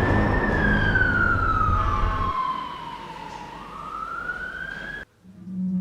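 Emergency vehicle siren wailing, its pitch sliding slowly down and then back up, over a low traffic rumble that drops away about two seconds in. The siren cuts off abruptly near the end.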